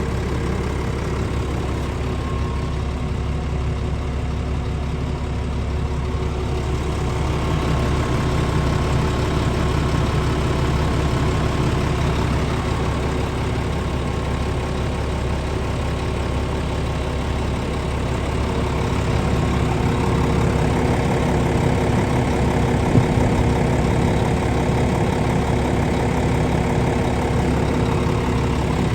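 Scania S500 truck's 13-litre inline-six diesel engine idling steadily, growing slightly louder partway through.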